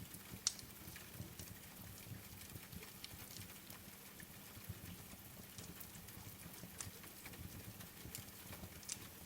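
Wood fire crackling, with irregular sharp pops and soft low knocks, over a steady hiss of rain; one loud pop about half a second in.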